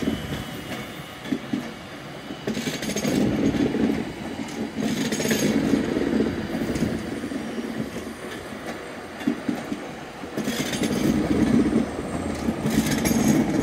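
Avanti West Coast Class 390 Pendolino electric train rolling past, its wheels rumbling and clattering over rail joints and points. The clatter comes in louder spells every few seconds.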